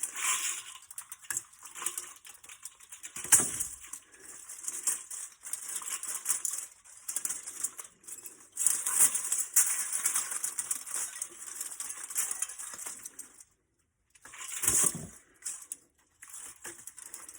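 Thin aluminum fins of an HVAC A-coil being torn and crinkled off the copper tubing by hand: an uneven scratchy, rustling metal noise that comes and goes, with two heavier knocks, about three seconds in and near the end.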